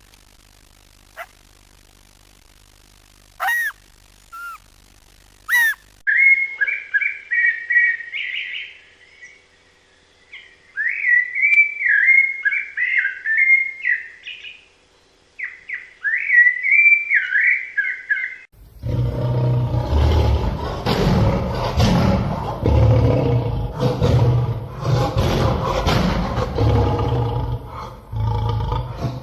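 A sequence of animal sounds. First a few short, separate sounds, then bird song of quick, warbling chirped phrases from about six seconds in. About eighteen seconds in, a louder, dense, pulsing sound with a deep low part takes over.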